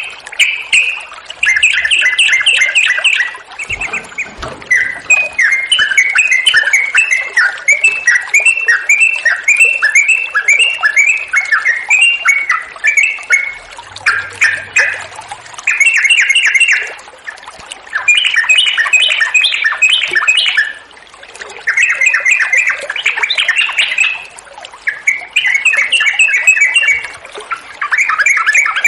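Yellow-vented bulbul (trucukan) singing in long, rapid, bubbly phrases a few seconds each, separated by short pauses.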